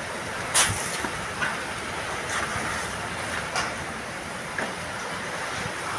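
Steady hiss of heavy rain falling, with a few sharp knocks; the loudest comes about half a second in.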